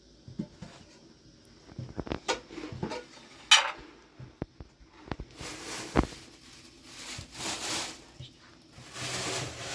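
Irregular knocks and clinks of objects being handled, with a sharp clack about three and a half seconds in and a thud at six seconds, followed by stretches of scraping noise.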